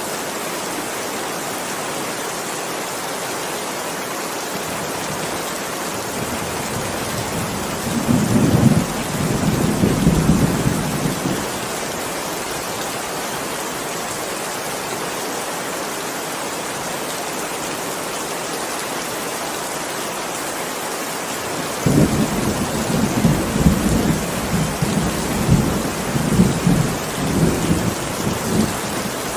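Steady heavy rain, with two peals of rolling thunder: a short one about eight seconds in and a longer, rumbling one starting about two thirds of the way through and running on to near the end.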